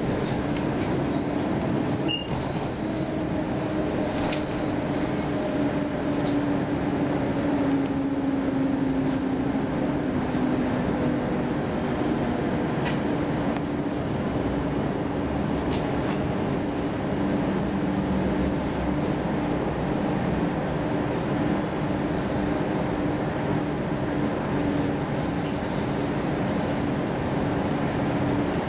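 Running noise of a Stockholm commuter rail X10 electric train heard from inside the carriage: a steady rumble of wheels on rails with a steady motor hum, a few slowly falling whines and scattered light clicks.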